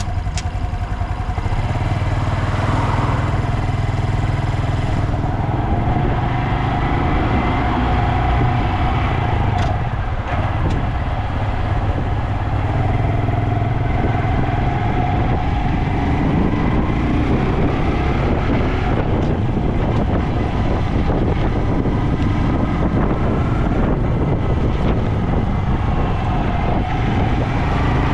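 Honda Dax125's air-cooled single-cylinder engine running through a Takegawa normal-look sport muffler, its exhaust note rising and falling gently with the throttle.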